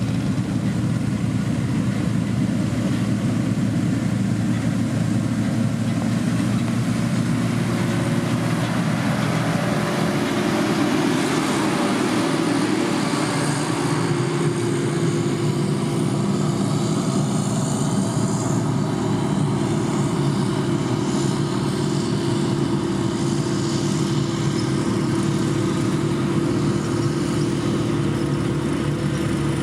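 Diesel engine of a heavy road-building machine, most likely a motor grader, running steadily; its pitch shifts a little about a third of the way through, then holds steady.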